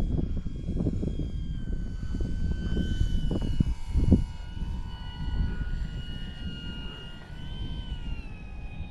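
Electric motor and propeller of a HobbyZone Bigfoot RC plane whining steadily at low throttle on a landing approach, the pitch easing down near the end, with gusty wind buffeting the microphone and a thump about four seconds in.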